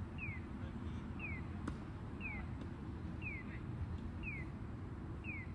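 A bird calling with a thin, high falling note, repeated evenly about twice a second, over a steady low rumble of background noise. A single sharp click sounds once, under two seconds in.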